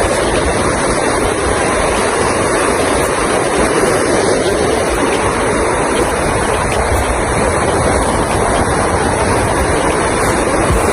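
Steady rushing of surf and wind buffeting the microphone, with no distinct events.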